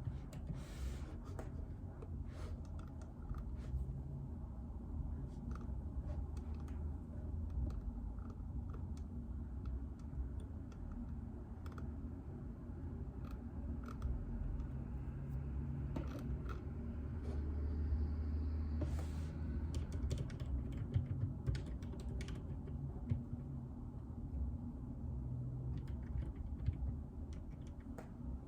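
Typing on a JJK84 mechanical keyboard with Outemu Silent Peach linear switches: a steady, irregular run of soft, damped keystrokes over a low steady hum.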